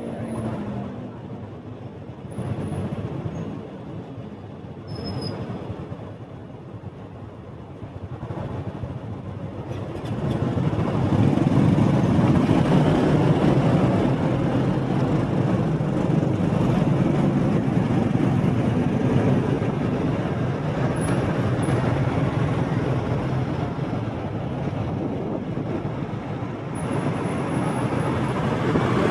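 A motorbike on the move through city streets, its engine and road noise running as a steady rough drone. It is fairly quiet at first and grows markedly louder about ten seconds in, then stays at that level.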